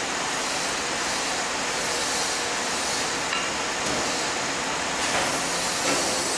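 Three-head spot welding machine working on aluminium pots: a steady machine hiss and rumble with a few faint clicks in the second half.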